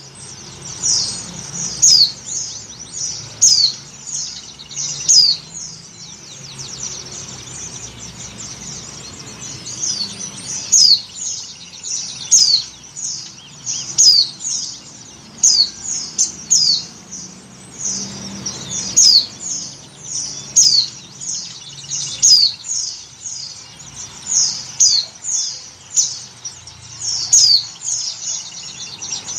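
Female pleci (white-eye) in breeding condition calling for a male: high, thin, downward-slurred chirps in quick little runs, repeated every second or two. This is the call used as a lure for male white-eyes.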